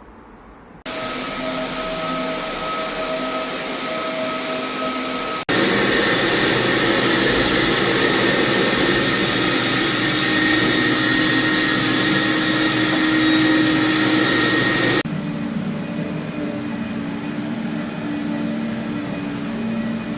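Electric cleaning machine running with a steady motor whine. It becomes a much louder rushing noise from about five seconds in and drops back about fifteen seconds in.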